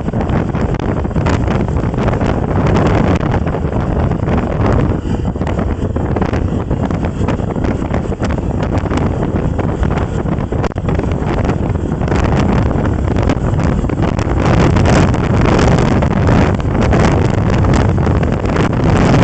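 Wind buffeting the microphone on the move: a loud, steady rush that swells slightly in the last few seconds.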